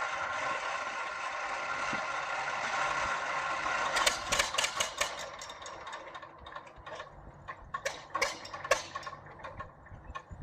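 A steady mechanical whirring hiss, then from about four seconds in a run of irregular sharp ticks and clicks that thin out near the end.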